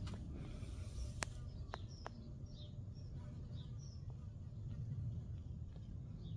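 Small birds chirping faintly here and there, with a few sharp clicks about a second in and a low steady rumble underneath.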